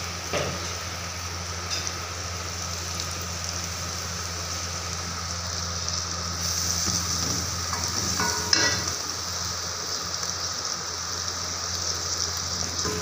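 Spice paste with green chillies sizzling steadily in hot oil in an aluminium pot while it is stirred with a wooden spoon, the masala being fried (bhuna).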